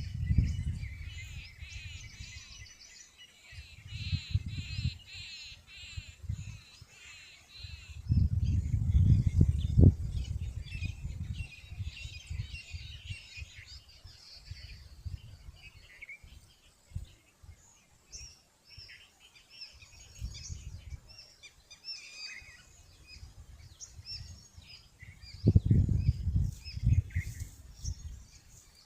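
Small birds chirping and twittering over and over, with several louder low rumbling bursts in between.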